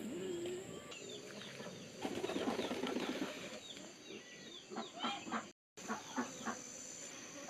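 A flock of chickens clucking and chirping, with many short calls overlapping. The calls are busiest between about two and three and a half seconds in, and the sound cuts out briefly just past halfway.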